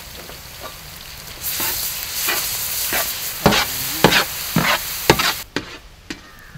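Ginger-garlic paste frying in hot sesame oil with shallots and dried red chillies in a large wok: a steady sizzle that swells about a second and a half in, with a wooden spatula scraping and stirring four or five times. The sizzle cuts off about five and a half seconds in, leaving a few soft knocks.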